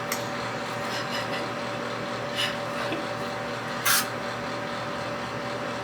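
Sunscreen mist spray bottle spritzing in short hissing bursts, the loudest about four seconds in, over the steady hum of a fan.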